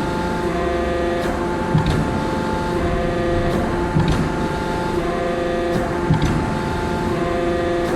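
50 kJ CNC fully hydraulic closed-die forging hammer working: a steady hydraulic hum with a short, low thud about every two seconds, three in all.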